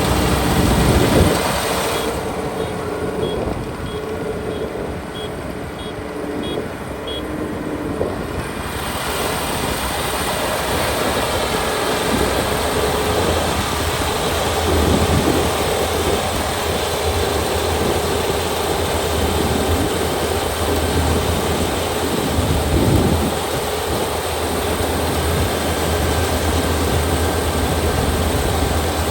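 Kubota ER572 combine harvester running steadily under harvesting load, its 72-horsepower engine and threshing machinery making a loud, continuous mechanical noise. The sound turns duller for several seconds near the start, and a deep steady hum grows stronger about halfway through.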